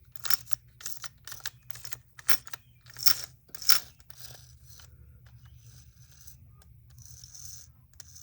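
Drill parts and tools being handled on a workbench: a quick run of sharp clicks and scrapes, the two loudest about three and three and a half seconds in, then fainter scratchy rubbing near the end.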